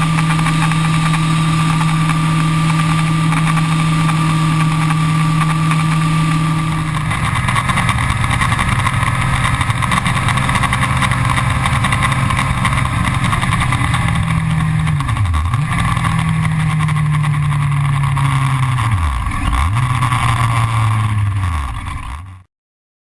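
Yamaha R1 sport bike's inline-four engine running at steady revs. About seven seconds in, the note drops to a lower, rougher pitch. Near the end the revs dip sharply and recover twice before the sound cuts off suddenly.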